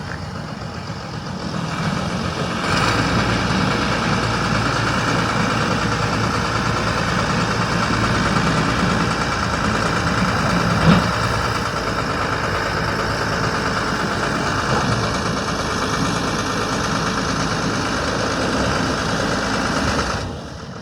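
Engine running steadily, growing louder about two and a half seconds in, with a single short knock near the middle, then dropping off just before the end.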